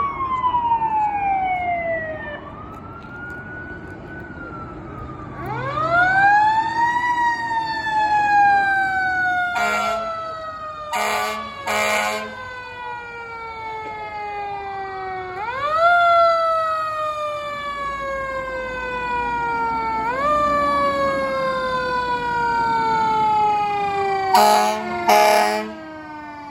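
Fire truck sirens, several overlapping, each winding up quickly and then coasting slowly down in pitch, over and over. Short horn blasts sound three times around the middle and twice near the end.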